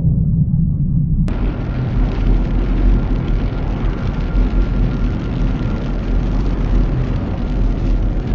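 A loud, steady rumbling noise with a hiss above it, which starts with a sudden cut about a second in.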